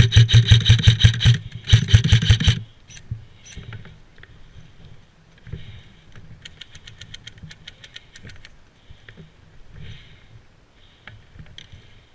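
Airsoft gun firing two rapid full-auto bursts close by in the first few seconds, then fainter bursts of fire from further off.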